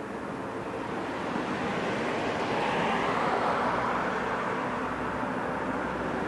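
A motor vehicle passing by, its sound swelling to a peak about three seconds in and easing off, then building again near the end.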